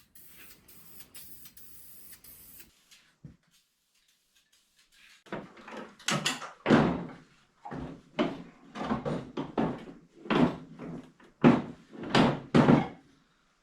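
A string of loud knocks and clanks, starting about five seconds in and ending shortly before the end, from metal parts being handled and set down in a garage. They follow a quieter stretch of faint hiss.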